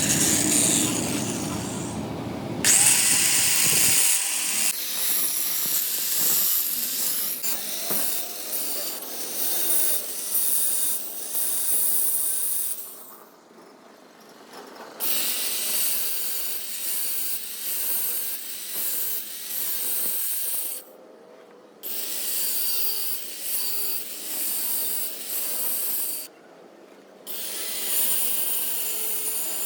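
Metal being worked on a truck flywheel with a tool: a rough, rasping scrape in long spells, broken by three short pauses.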